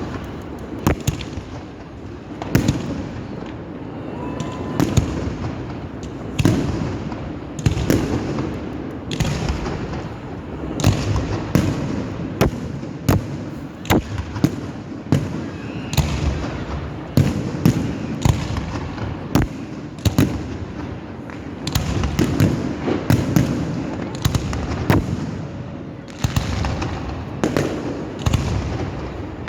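Fireworks display: aerial shells bursting in a long, irregular series of sharp bangs, several a second at times, over a continuous low rumble.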